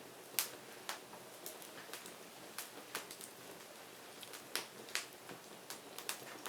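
Burning firewood crackling: irregular sharp pops and snaps over a faint steady hiss, the loudest pop about half a second in and others around the middle and near the end.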